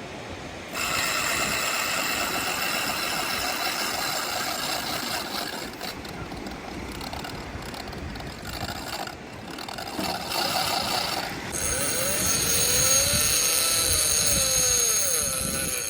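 A fishing reel's drag screaming as a hooked shark runs line off it. It is a loud, continuous high whine that starts just under a second in, and its pitch jumps higher about three-quarters of the way through as the line pays out faster.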